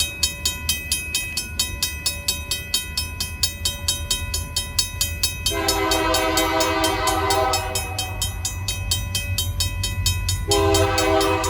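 RACO mechanical crossing bell ringing in rapid, even strokes over the low rumble of an approaching Union Pacific freight locomotive. About five and a half seconds in, the locomotive's horn sounds one long blast, and a second blast starts right after it near the end.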